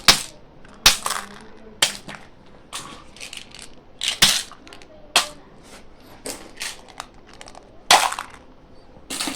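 Plastic candy packaging being handled, crinkling and crackling in a string of irregular sharp crackles, louder about a second in, around four seconds in and near the end.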